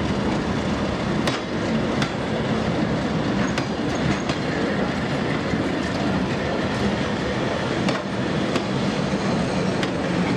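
Diesel train running on the track: a steady engine and wheel rumble with scattered, irregular clicks from the wheels over the rails.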